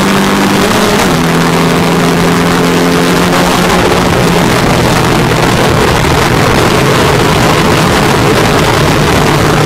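MGA race car's four-cylinder engine heard from the cockpit, running under load with wind rush. Its pitch steps down about a second in, as at a gear change, sinks again around four seconds in, then rises a little near the end.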